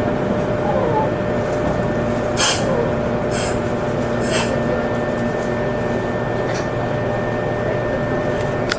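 Electric train running at steady speed, heard from inside the carriage: a constant rumble of wheels on rail with a steady whine. A few sharp clacks come about a second apart midway, typical of wheels crossing rail joints.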